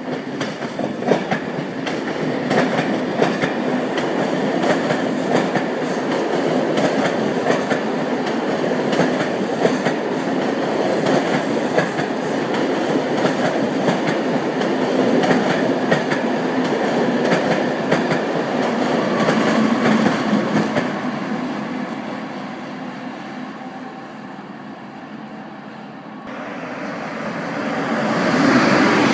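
Passenger train running past on the tracks below, its wheels clicking over rail joints in a steady stream, then fading away. About four seconds before the end a TGV Duplex double-deck high-speed train comes by close, its sound rising as it passes.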